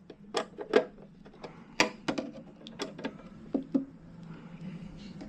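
Irregular sharp clicks and light knocks of hand tools and metal parts being handled on a boiler's burner assembly, about eight in all. Under them runs a steady low hum that grows louder near the end.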